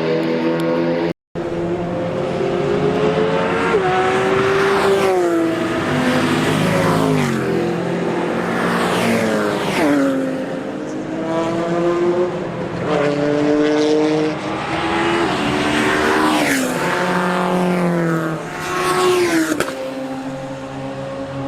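Unsilenced race car engine at high revs on track, its pitch climbing and dropping again and again through gear changes, with a brief cut-out about a second in.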